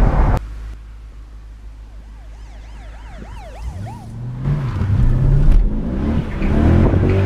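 A car engine at a car show exit: loud engine noise cuts off suddenly about half a second in, leaving a steady low rumble. A faint siren wails up and down for a couple of seconds. From about four seconds in, the engine revs and accelerates hard, its pitch rising in surges.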